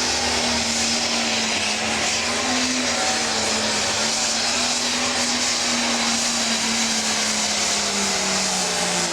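Pro stock pulling tractor's turbocharged diesel engine running flat out under load as it pulls the sled, with a loud steady engine note and a heavy turbo hiss. The pitch sinks slowly toward the end as the engine is pulled down.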